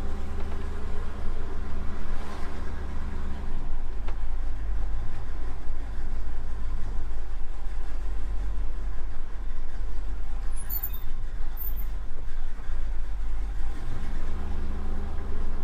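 A 1957 Chevrolet Bel Air under way, heard from inside the cabin: a steady low engine and road sound. Its low note drops about three and a half seconds in and rises again near the end.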